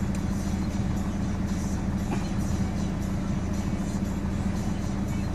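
Idling car engine heard from inside the cabin, a steady low hum.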